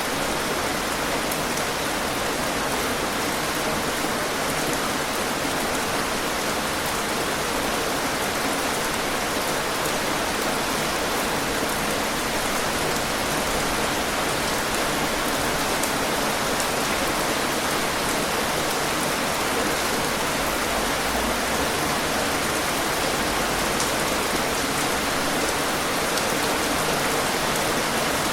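Steady rain falling, a dense even hiss of drops striking a surface with fine individual patters.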